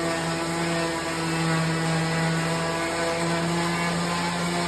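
Electric palm sander running steadily on a log wall, a constant hum that holds one pitch.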